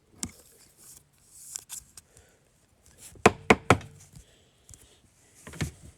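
Trading cards and packs handled on a table: light rustling and scattered clicks, with three quick sharp knocks a little over three seconds in and another near the end.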